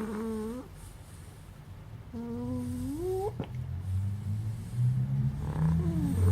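Puppy snoring in its sleep: two drawn-out, squeaky snores, each rising in pitch. Then a low rumble builds up over the last couple of seconds.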